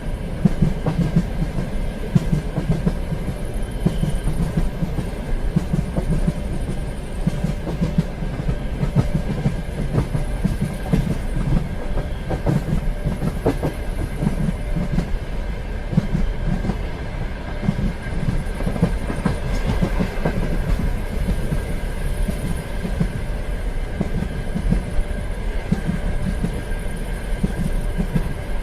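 Train running along the track: a steady rumble with the wheels clicking over the rails.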